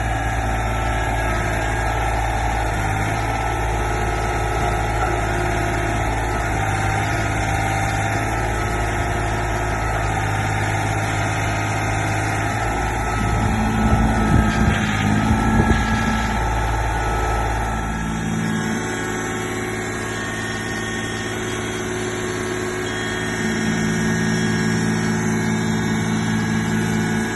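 Tractor engine running steadily at idle. Between about 13 and 16 seconds in there are louder, uneven bursts, and about 18 seconds in the deep low rumble drops away as the engine note changes.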